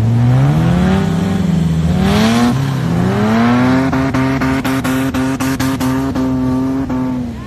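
Four-wheel-drive engine revving hard under load as a bogged vehicle is snatched out of soft sand on a kinetic recovery rope. The pitch climbs twice in the first couple of seconds, then holds high for about four seconds with a run of sharp clicks, and drops away near the end.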